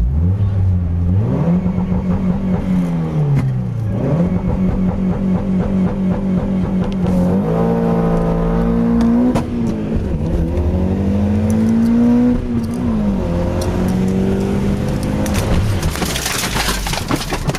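Mitsubishi Eclipse's engine revving hard at full throttle through several gear changes, its pitch climbing and then dropping at each shift. Near the end a loud harsh noise takes over as the engine blows, a piston and connecting rod letting go.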